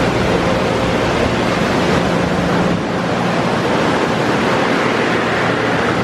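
Touchless car wash air dryers blowing, a loud steady rush of air with a low motor hum under it.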